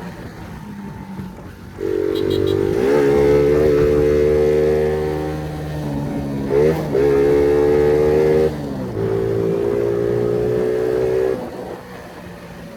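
Phoenix 50cc motorcycle engine running hard at high revs, a steady high note whose pitch steps up, dips and recovers a few times before it eases off near the end.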